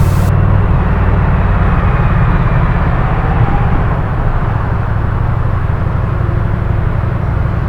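Motorcycle engine running steadily during a ride, with a steady rushing noise over it.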